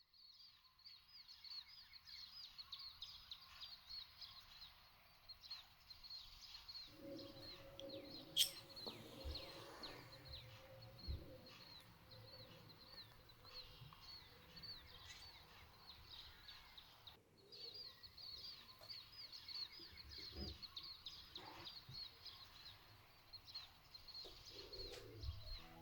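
Faint chorus of small birds chirping continuously, quick repeated high calls, over a soft outdoor background hum, with one sharp click about eight seconds in.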